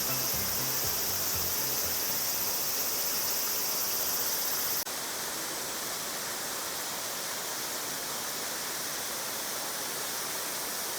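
Steady rush of flowing water, with a high, even buzz of summer insects above it. The level drops slightly at a cut about five seconds in.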